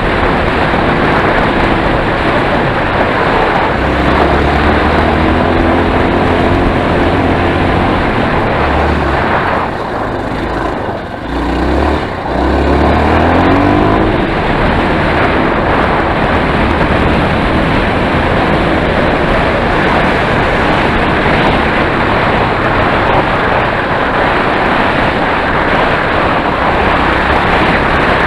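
Enduro motorcycle being ridden, its engine running and its pitch rising and falling with the throttle, under a heavy rush of wind noise. Loudness dips briefly about eleven seconds in.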